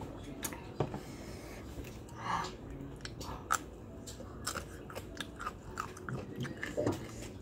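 Close-up chewing: a person biting and crunching food, with many short crisp crunches.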